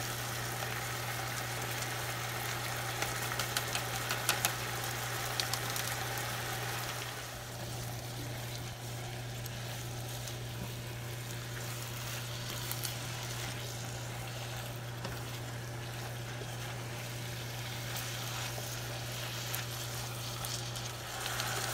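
Minced beef and bell peppers sizzling in a frying pan while a spatula stirs through them, with short scraping taps in the first few seconds. The sizzle is fuller for about the first seven seconds, then settles lower over a steady low hum.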